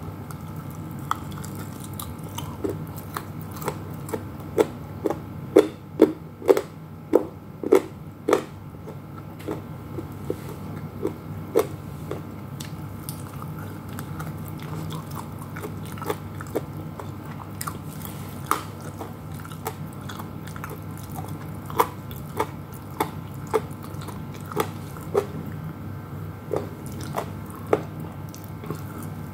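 Close-miked biting and chewing of crispy fried chicken: sharp crunches and wet mouth sounds, densest and loudest about six to eight seconds in, then scattered bites and chews, over a low steady room hum.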